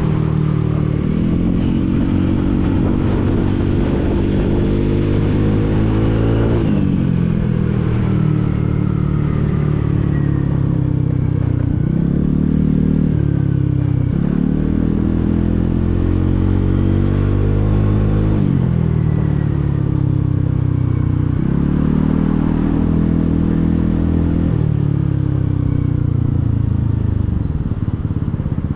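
Motorcycle engine running under way, its pitch climbing as it accelerates and dropping back at each gear change, over and over through the stop-and-go riding.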